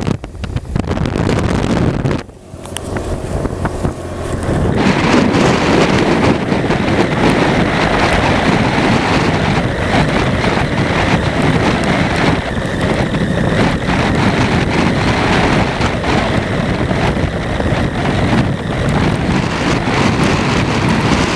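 Heavy wind noise on the microphone of a moving motorcycle, with the bike's running noise under it. It drops briefly about two seconds in, then builds and holds steady from about five seconds on.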